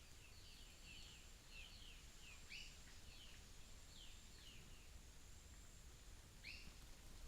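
Faint birds calling: a run of quick, short falling chirps, with two louder two-part calls about two and a half seconds in and again near the end, over a steady thin high hum.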